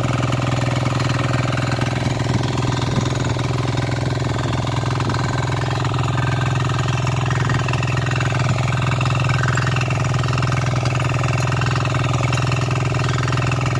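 Diesel engine of a Kisankraft KK-IC-250D power weeder (247 cc single-cylinder) running loud and steady, with no change in speed.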